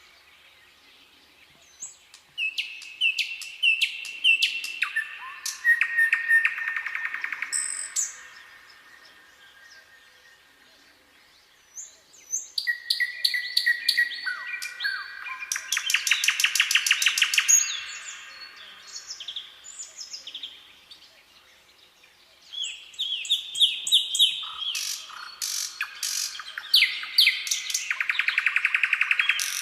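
Songbirds singing in three bouts of several seconds each: quick chirps, short whistled notes and fast trills, with quieter pauses between the bouts.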